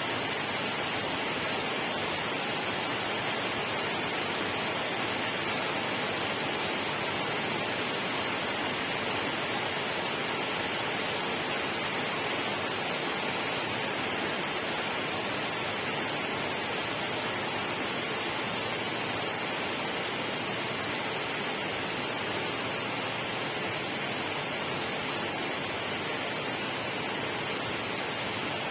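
Steady, unbroken hiss of rushing water, even in level, with no separate drops, splashes or other events.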